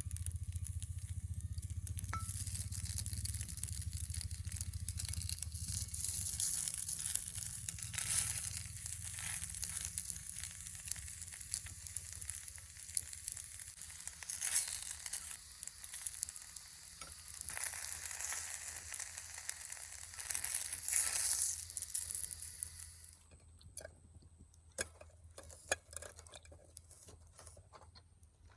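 Food sizzling and frying in a pan over a campfire, a steady hiss dotted with small crackles and spatters. The sizzling stops abruptly about 23 seconds in, leaving only a few faint clicks.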